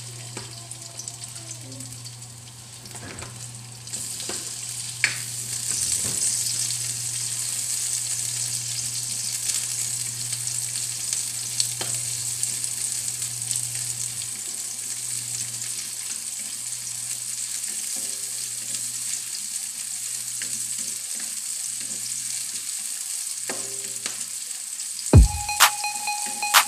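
Chopped garlic and onion sizzling in oil in a steel wok, with the ladle stirring and clinking against the pan; the sizzle grows louder about four seconds in. Near the end, music comes in.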